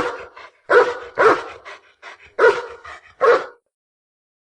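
A dog barking: a run of about five short, separate barks at an uneven pace, stopping about three and a half seconds in.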